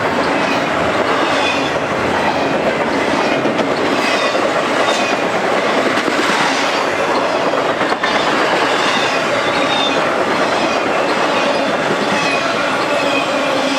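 A loaded double-stack freight train's cars roll steadily past close by, with wheels clattering over the rail joints. Faint high wheel squeal rings over the steady rumble.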